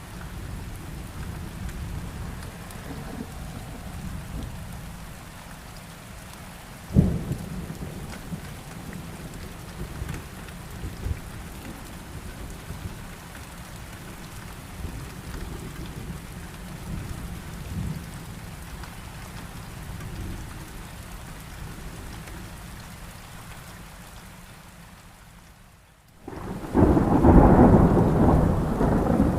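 Heavy rain with thunder: a sharp thunderclap about a quarter of the way in, then the sound fades and cuts out briefly before a loud peal of thunder over rain breaks in near the end.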